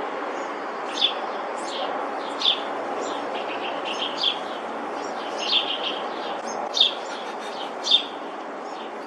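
Hummingbird chirping: short, high chips, roughly one a second at irregular intervals, over a steady background hiss.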